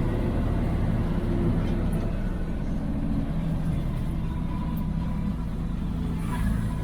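IFA L60 truck's six-cylinder diesel engine running steadily, heard from inside the cab.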